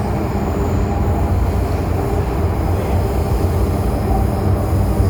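MTR M-Train metro car running on track: a steady rumble of wheels and running gear.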